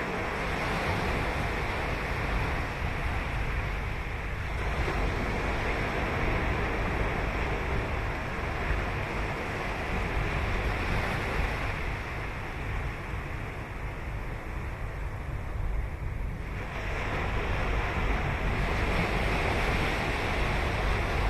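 Ocean surf breaking and washing on the beach, a continuous rush that swells about four seconds in and again past sixteen seconds, under a low rumble of wind on the microphone.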